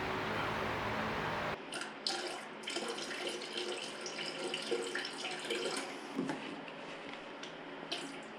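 Kitchen tap running steadily, cutting off abruptly about a second and a half in; light clicks and clinks follow.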